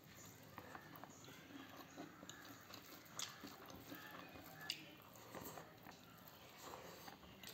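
Faint sounds of a person eating fried rice by hand: chewing and scattered small mouth clicks over quiet room tone.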